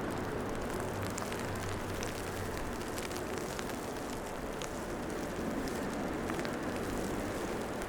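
Steady city street ambience in falling snow: a low traffic hum under an even hiss, with faint, scattered light ticks.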